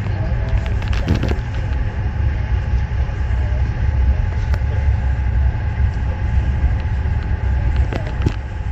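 Alaska Railroad Denali Star passenger train running, heard from aboard: a steady low rumble of wheels on track, with a few sharp clicks about a second in and again near the end.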